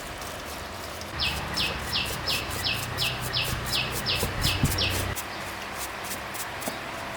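A bird calling a run of about eleven short, high notes, each falling in pitch, at about three a second, over a low hum that starts and stops with it.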